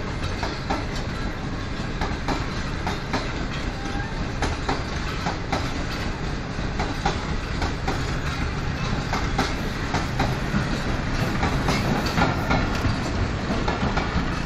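Pakistan Railways passenger coaches rolling past close by, their wheels clattering over the rail joints in irregular clicks over a steady rumble.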